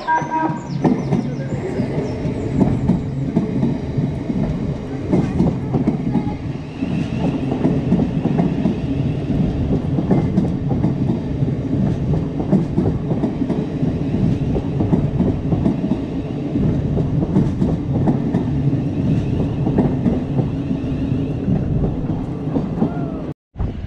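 A Class 700 electric multiple unit passes close by on the track below: a steady rumble of wheels on rails, with many quick clicks as the wheels run over joints and pointwork. Near the end the sound drops out abruptly for a moment.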